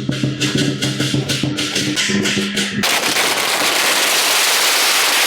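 Parade band music with held notes, punctuated by firecracker bangs; about three seconds in, a long string of firecrackers goes off in a dense, continuous crackle that drowns out the music.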